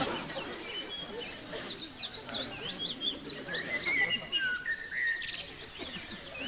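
Several birds chirping and singing together, a steady run of short calls sliding up and down in pitch.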